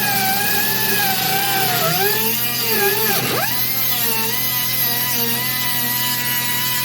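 Cutoff wheel cutting through rusted truck-cab sheet metal: a steady high whine over a gritty hiss. The pitch sags as the wheel is pressed into the metal, dropping sharply about three seconds in, then picks back up.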